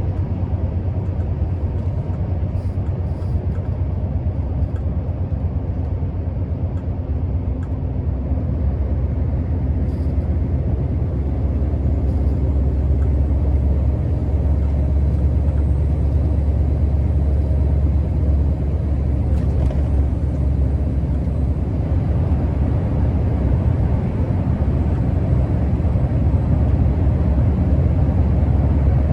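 Scania R650's 16-litre V8 diesel truck engine running under way, a steady deep rumble with road noise that grows a little louder about a third of the way in.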